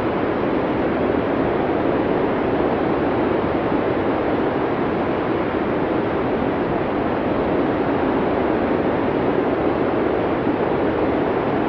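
Blizzard wind: a steady, dull rush of wind noise that holds level with no gusts or breaks.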